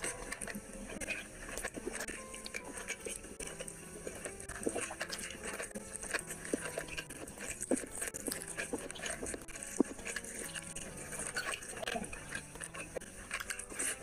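Close-miked eating sounds: wet chewing and lip-smacking with irregular small clicks, as rice and curry are eaten by hand, and squelches of fingers mixing rice with gravy.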